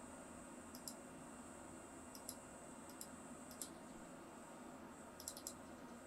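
Light button clicks, each a quick press-and-release pair, about five of them spaced irregularly, over a faint steady high whine.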